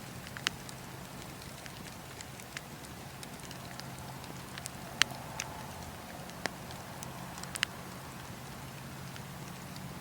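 Campfire crackling: a few sharp, scattered pops over a steady low rush of burning, the loudest pop about halfway through.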